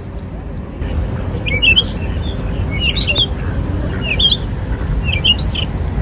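A small bird chirping: four short clusters of quick high notes a second or so apart, over a steady low rumble.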